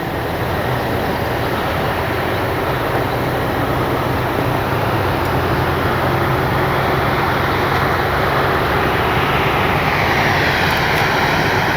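Electric E-flite Piper Cherokee RC airplane coming in to land: a steady rushing noise that grows louder, with a motor whine changing pitch near the end.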